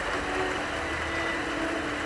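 Steady rain falling, an even hiss, with soft, long-held cello notes sounding faintly beneath it.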